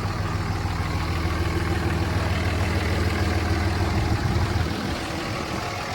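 A 2007 Dodge Ram 2500's 5.9-litre Cummins inline-six turbo-diesel idling with a steady low drone.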